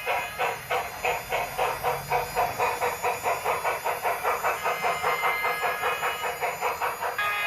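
Sound effects from a model Union Pacific Big Boy steam locomotive: rhythmic steam chuffing, about four beats a second. Near the end the chuffing stops and gives way to a steady tone.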